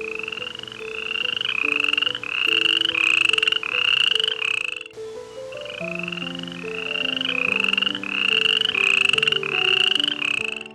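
An animal calling in a rapid series of short rising chirp-like calls, about two a second, in two runs with a short break between them. Soft stepped background music notes play underneath.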